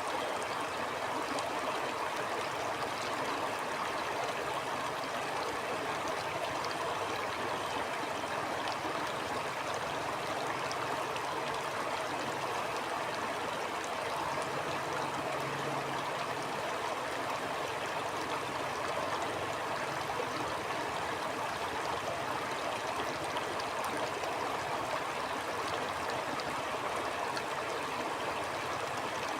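A stream flowing, a steady, unbroken rush of water.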